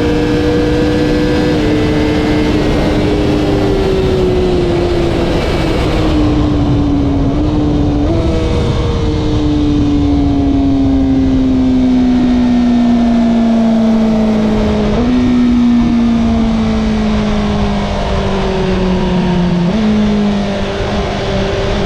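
Honda CBR1000RR-R SP's inline-four engine running under way, its pitch falling slowly and jumping up sharply about five times, as with a series of downshifts while slowing.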